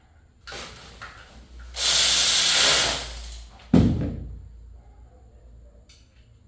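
A loud hiss of pressurised gas lasting about a second, followed a moment later by a single sharp knock.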